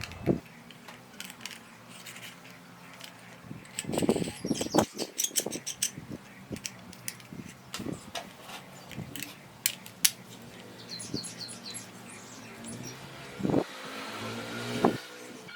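Scattered light clicks and knocks, with a few heavier thuds, and birds chirping in short runs in the background.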